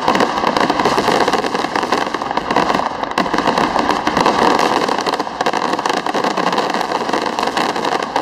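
Fireworks finale: aerial shells bursting in a rapid, unbroken barrage of bangs and crackling.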